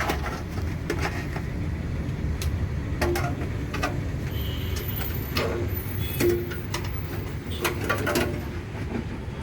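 Scattered light clicks and knocks of a hard disk being handled and slid into the metal drive bay of a desktop PC cabinet, over a steady low background rumble.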